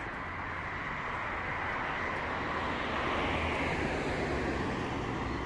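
A vehicle passing by, its noise swelling to a peak about three seconds in and then fading.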